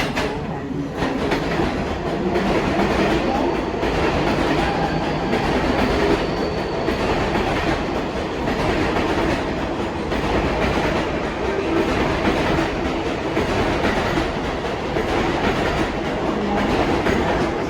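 R188 subway train running through the station: a steady rumble with repeated clacking of wheels over rail joints, starting with a sharp click.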